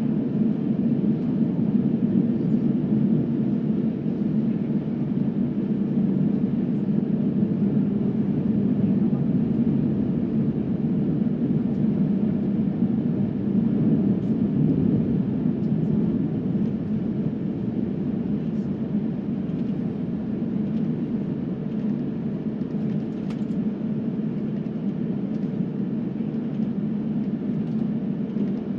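Steady jet airliner cabin noise: a constant rumble of the engines and airflow heard from inside the passenger cabin, easing slightly in the second half.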